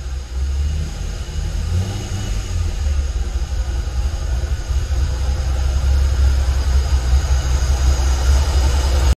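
C5 Corvette Z06's LS6 V8 running at idle as the car creeps slowly forward, a low rumble growing gradually louder as it comes closer.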